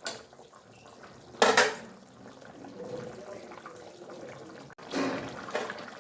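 Metal utensil clattering against a cooking pot of simmering fish curry: a sharp knock at the start, a loud clatter about one and a half seconds in, and another rattle near the end.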